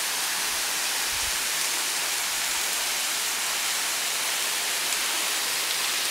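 A tall waterfall rushing: a steady, even hiss of falling water with no change in level.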